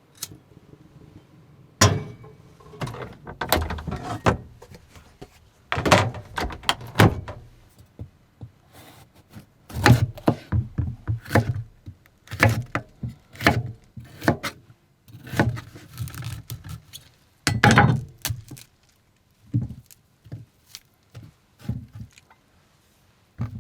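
Irregular clunks, knocks and clatter of kitchen things being handled and set down in a small camper kitchen while food is got ready, with short quiet gaps between them.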